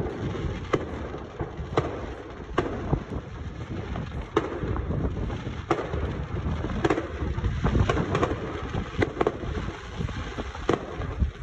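Aerial fireworks going off: sharp bangs at irregular intervals, about one a second, over a steady low rumble.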